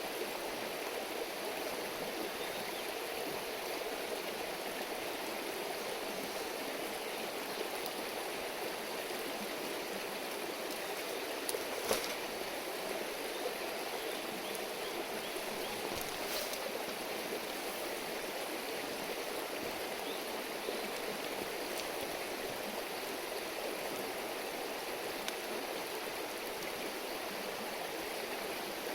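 Small river babbling steadily over stones, with two sharp cracks, one about twelve seconds in and another about four seconds later.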